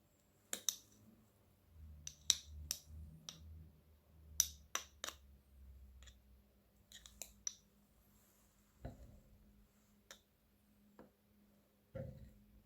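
Kitchen knife mincing garlic on a cutting board: irregular sharp chops, some in quick pairs, others with pauses of a second or more between them.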